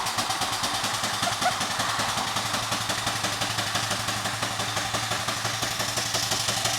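A 4-inch-scale Burrell steam traction engine running under steam, its exhaust beating in a fast, even rhythm of sharp chuffs.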